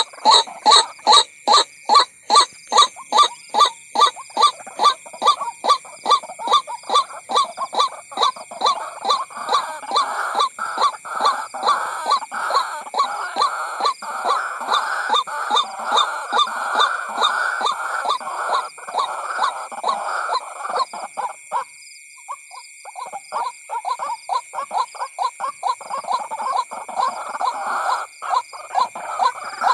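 White-breasted waterhen calling: a rapid, insistent run of repeated ruak-ruak notes, a lure call for drawing in waterhens. The notes come about three a second at first, then crowd into a denser, faster stretch, break off briefly about two-thirds of the way through, and resume.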